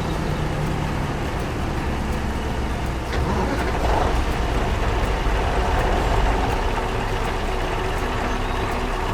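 Heavy vehicle engine running with a steady low rumble, growing louder about three seconds in.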